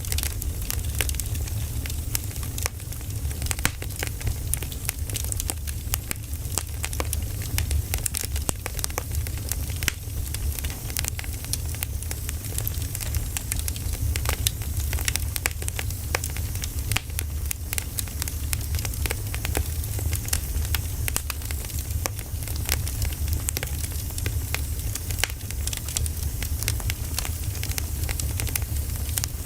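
Firewood burning: steady, dense crackling with frequent sharp pops over a low rumble.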